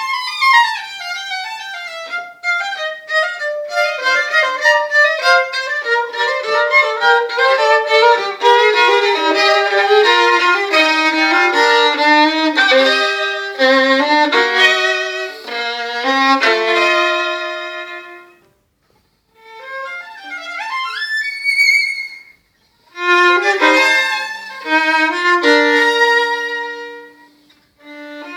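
Violin and piano playing a sonata, with quick runs of notes in the violin. The music breaks off briefly twice, about 18 and 22 seconds in, before resuming.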